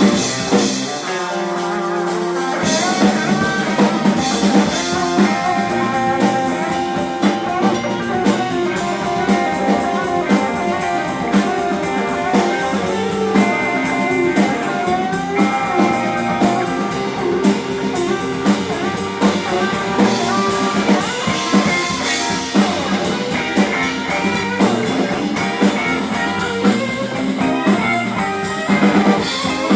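Live blues-rock band playing: electric guitar lines over a drum kit and bass guitar. The low end fills in about two and a half seconds in.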